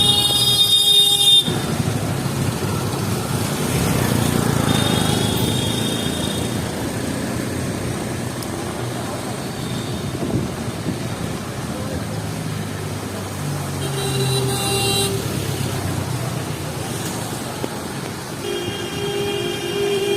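City street traffic: vehicle horns sounding several times, in the first second or so, around the middle and again near the end, over a steady wash of traffic noise.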